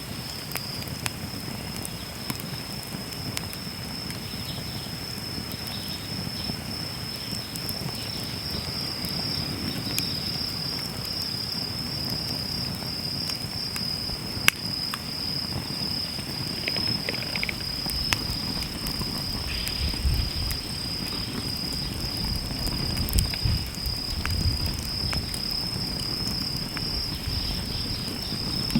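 Wood fire crackling in a Snow Peak Takibi-dai L fire pit, with scattered sharp pops, under a steady high chirring of insects. A low rumble comes and goes in the second half.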